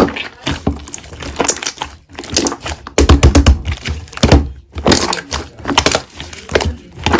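Slime being squeezed and pressed by hand, giving irregular sticky clicks, pops and crackles, densest about three seconds in.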